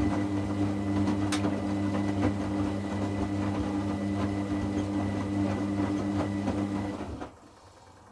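Washing machine drain pump humming steadily with a watery rattle as it pumps out the rinse water, then cutting off abruptly about seven seconds in.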